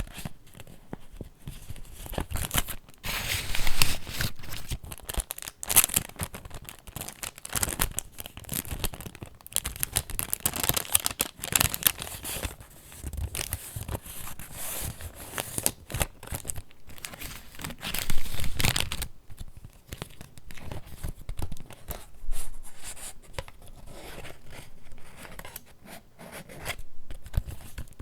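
Paper pages of a handmade junk journal rustling and crinkling as they are handled and turned, in uneven bursts, with louder swishes about three seconds in and again near eighteen seconds.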